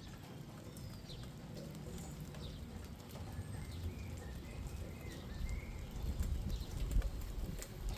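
Small birds chirping and calling in short phrases over light rain falling on garden plants, with scattered drip clicks and a low rumble that grows louder in the second half.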